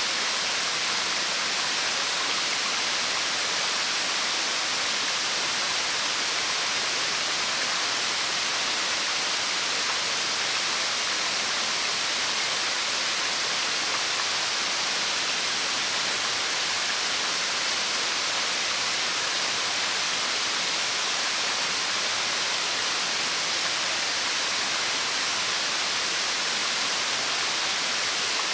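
A 30-metre branching waterfall falling steadily, an even rushing hiss with no breaks.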